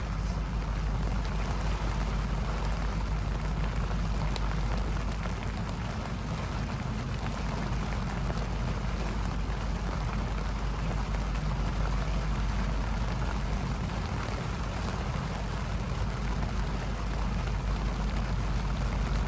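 Steady rain falling in a storm, an even hiss of rain with a constant low rumble beneath it.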